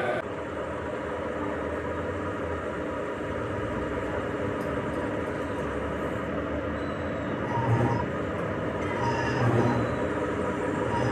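Heavy workshop machinery running with a steady rumble and rattle. It swells louder with brief high squeals about 8 and 9.5 seconds in.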